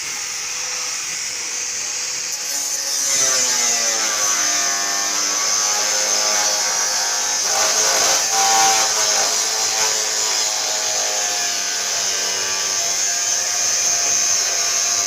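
Angle grinder with a cutting disc running steadily, then biting into steel plate about three seconds in, when the sound grows louder and a wavering grinding joins the motor's high whine.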